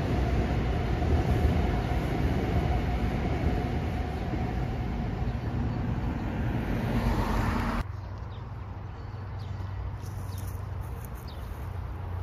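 Metro-North M8 electric commuter train running over a steel railroad bridge as it passes, a steady heavy rail noise. About eight seconds in it cuts off abruptly to a much quieter low rumble from a distant approaching train, with a few faint short chirps.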